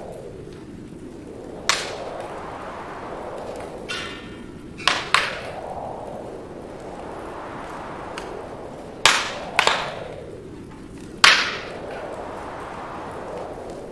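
Wood fire in a fireplace crackling, with about six sharp, loud pops of burning logs and a brief hiss near the middle. Underneath is a steady rushing of wind that swells and fades every few seconds.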